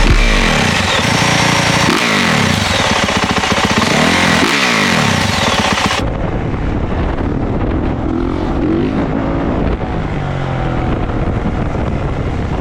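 Dirt bikes being ridden hard, their 450cc four-stroke single engines revving up and falling back again and again in rising and falling sweeps. About six seconds in it cuts to a second, duller-sounding clip of engine revving.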